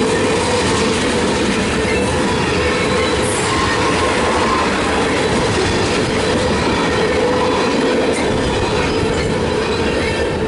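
Railroad cars rolling steadily past on the rails, a loud continuous rumble of wheels on track with a thin wheel squeal running through it.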